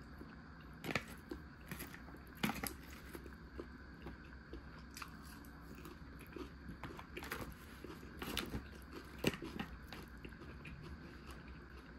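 A person eating crab stick salad: irregular crisp crunches and clicks of biting and chewing, over a steady low hum.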